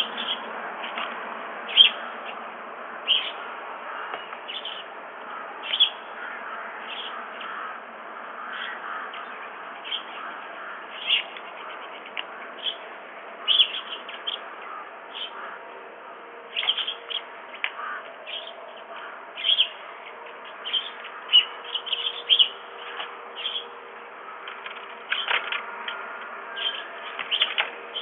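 Birds calling with frequent short chirps, one every second or so and sometimes several in quick succession, over a steady faint background noise.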